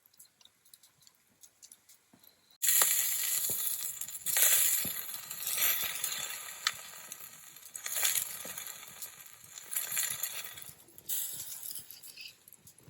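Skewered chicken thigh roasting over campfire embers: faint crackles, then about two and a half seconds in a sudden loud hissing sizzle with sharp pops and crackles, swelling and easing off several times.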